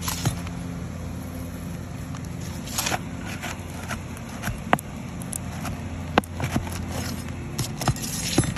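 Scraping tool prying at thin roof shingles and their nails: sharp clicks and short scrapes at irregular intervals. A steady low motor hum runs underneath.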